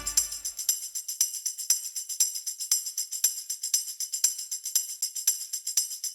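Themed background music from the land's loudspeakers in a sparse stretch: only high jingling percussion keeping a steady beat, about two strokes a second, after the fuller band drops out.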